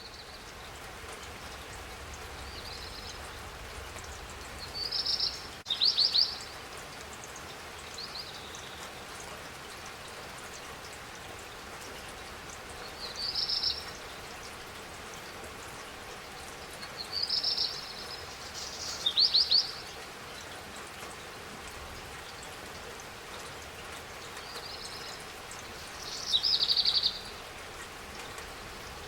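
Steady rain falling, a constant even hiss, while a songbird sings short high phrases every few seconds, some ending in quick trills; the birdsong is the loudest sound.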